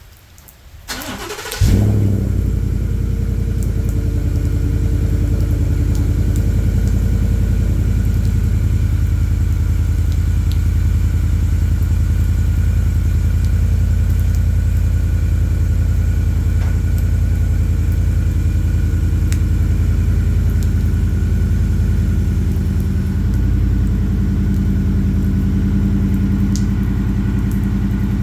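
2018 Ford F-150 cold-started through an aftermarket Magnaflow 19572 exhaust: the starter cranks briefly about a second and a half in, the engine catches and settles into a loud, steady cold-start idle, whose note shifts slightly a few seconds before the end.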